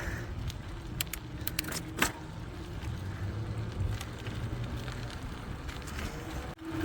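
Bicycle ride heard through a phone's built-in microphone: a steady low rumble of tyres on the road with wind on the microphone, and several sharp clicks and rattles about one to two seconds in.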